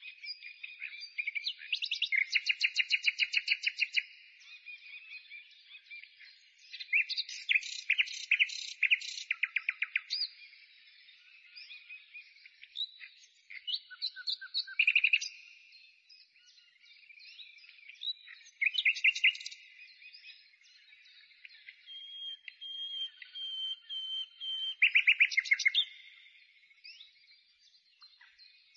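Songbird singing: several phrases of fast, high trills a few seconds long, with short pauses between them.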